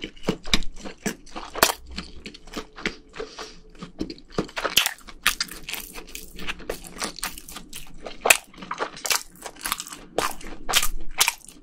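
Close-miked chewing of a red-sauced rice cake and sausage skewer (sotteok): a steady run of wet mouth clicks and smacks, irregularly spaced.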